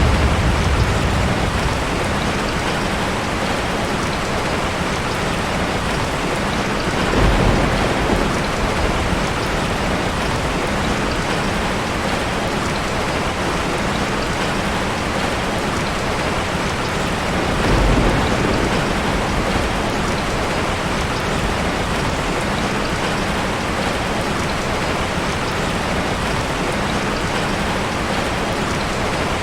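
Heavy rain falling steadily, with two short low rumbles of thunder, about seven seconds in and again around eighteen seconds.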